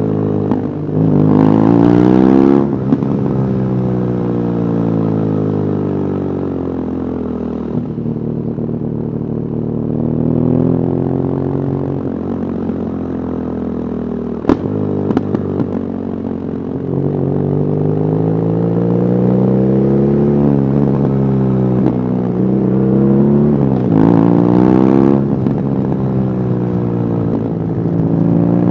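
BMW R nineT Urban GS boxer-twin engine through its stock exhaust, pulling up through the gears and rolling off, its pitch climbing, dropping at each shift and falling away, with harder pulls near the start and again near the end. About halfway through there is one sharp click, of the sudden popping kind that the rider puts down to a recording problem.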